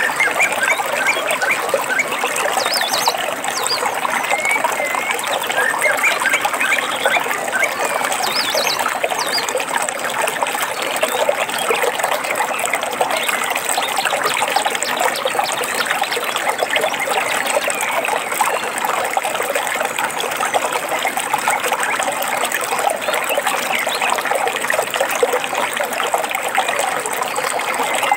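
Running water trickling and babbling steadily, with birds chirping over it now and then, mostly in the first ten seconds and briefly again near the end.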